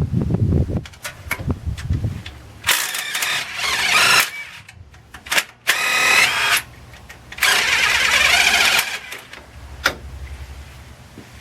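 A power wrench running in three bursts, about a second or a second and a half each, as bolts are spun loose. There are a few metallic knocks before and after the bursts.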